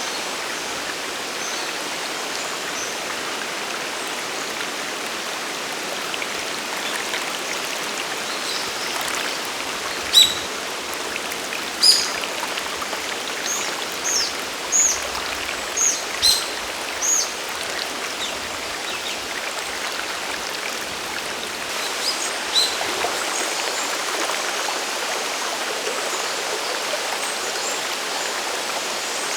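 A waterfall and mountain stream rushing steadily. A bird calls over it with a run of short, sharp chirps from about ten to seventeen seconds in, and twice more a little later.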